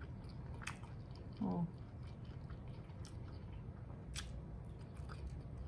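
Quiet mouth sounds of a person chewing saucy fried chicken, with a few sharp wet clicks, the clearest a little past four seconds in, and a short hummed "mm" about one and a half seconds in.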